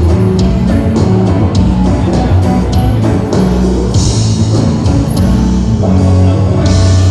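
Live band playing loud rock-style music: drum kit with a steady beat, a bass line and guitar.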